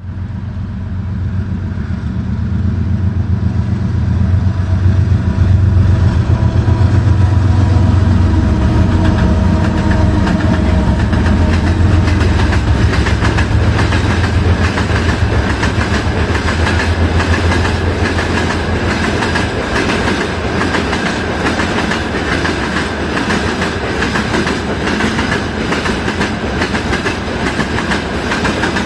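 A train passing close by: a heavy low hum with steady whining tones for the first half or so, then a rapid run of wheel clicks over rail joints as the cars go by.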